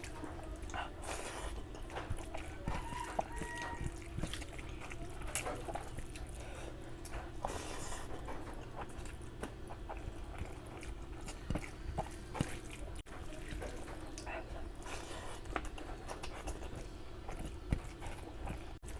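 Close-miked wet eating sounds: a person chewing curry and rice, with many scattered short wet clicks and smacks.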